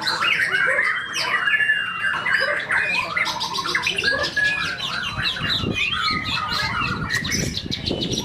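White-rumped shama (murai batu) singing a fast, varied song of whistles, trills and chattering phrases, packed with mimicked fill-in calls. A low rumbling noise comes in about five seconds in.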